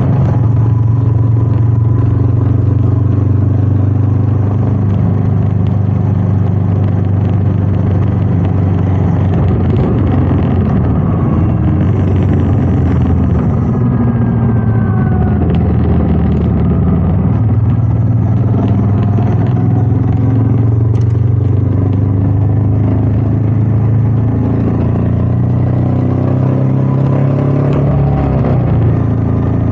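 Royal Enfield Meteor 350's single-cylinder engine running under way on the road, with wind noise on the rider's microphone. The engine note shifts in pitch with the throttle about a third of the way through, and climbs again near the end.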